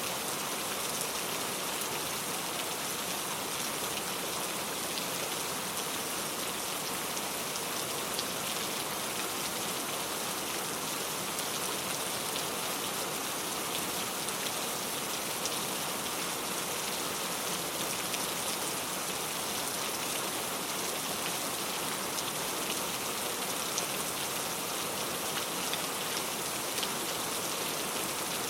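Steady rain falling, an even patter with many small drop ticks and no thunder.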